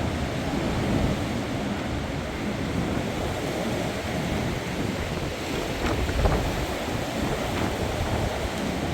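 Windstorm wind blowing hard and steadily, buffeting the microphone, with a stronger gust about six seconds in.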